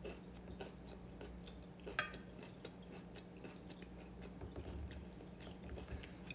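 Faint chewing of food with small scattered clicks of a fork on a plate, one sharper click about two seconds in, over a steady low hum.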